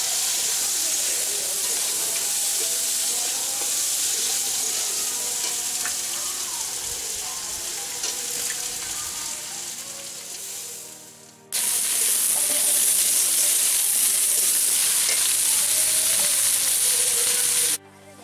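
Drumstick and potato pieces sizzling as they fry in hot oil in a metal karai, stirred with a spatula. The sizzle slowly fades, jumps back louder about two-thirds of the way through, and cuts off suddenly near the end.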